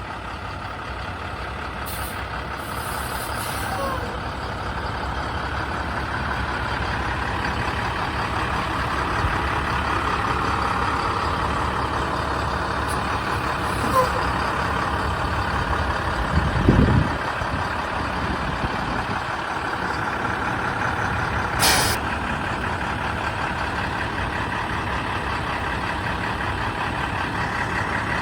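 2009 International 7400 plow truck's diesel engine running steadily, with a few short air hisses from the truck's air system.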